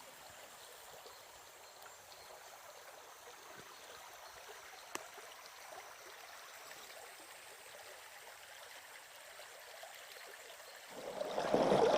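Mountain river flowing: a faint steady rush at first, then much louder from about eleven seconds in. A single light click about five seconds in.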